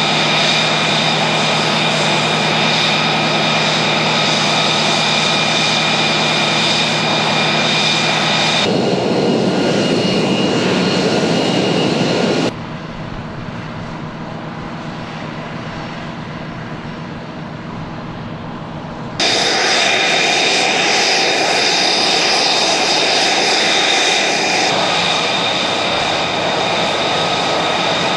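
Pratt & Whitney F135 jet engine of an F-35B running in its short-takeoff/vertical-landing hover configuration: a loud, steady jet roar with high whining tones. About twelve seconds in the sound abruptly drops to a quieter, duller roar, then comes back full about seven seconds later.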